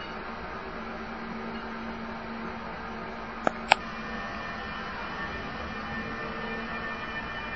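Electric locomotive hauling a passenger train, drawing slowly past at close range with a steady hum and hiss. Halfway through come two sharp short sounds about a quarter of a second apart.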